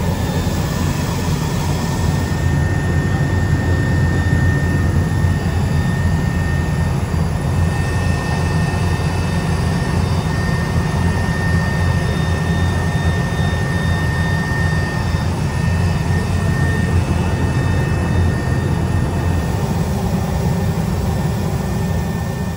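Aircraft in flight: a loud, steady engine and airflow drone with a deep low rumble and a faint thin whine, unchanging throughout.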